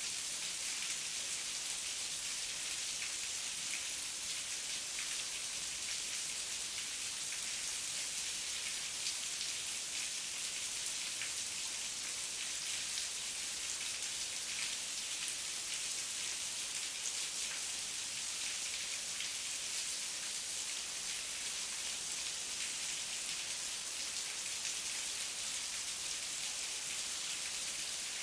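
Steady heavy rain falling, a dense even hiss of drops with many small close patters.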